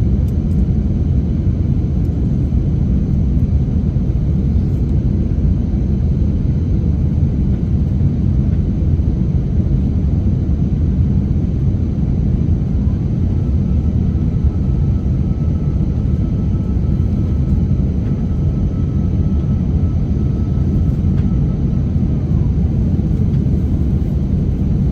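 Steady low rumble of an Airbus A350-900's cabin noise. A faint thin whine comes in about halfway through and fades out near the end.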